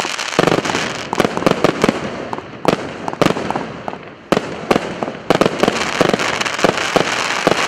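A 100-shot, 0.8-inch firework battery (РС658 "Мечта пилигрима") firing: sharp bangs in quick, irregular succession over a steady crackling hiss.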